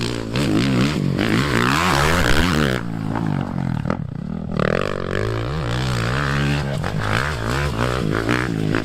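Dirt bike engines revving up and down as the bikes ride the track, the pitch repeatedly rising and falling with throttle and gear changes. The sound dips briefly around three to four seconds in.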